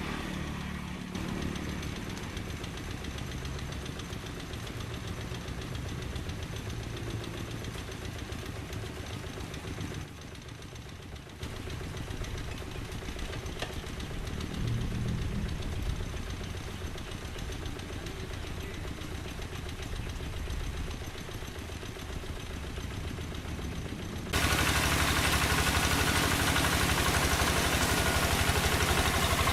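The single-cylinder diesel engine of a Quick G3000 Zeva two-wheel hand tractor runs steadily with a knocking beat. About 24 seconds in, the sound suddenly becomes louder and fuller, with a steady hiss across all pitches.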